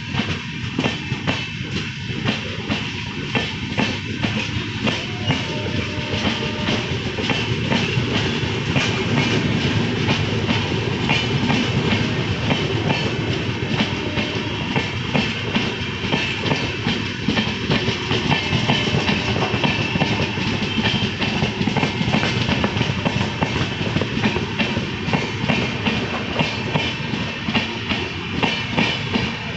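Maurya Express passenger coaches rolling past on the next track, their wheels clicking steadily over the rail joints over a continuous rumble.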